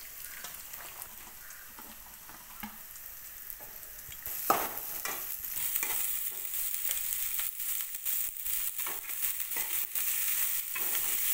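Chopped onions sizzling in hot oil in an aluminium kadai, stirred with a metal spatula that scrapes and clicks against the pan. The sizzle grows louder about four seconds in, with one sharper knock of the spatula.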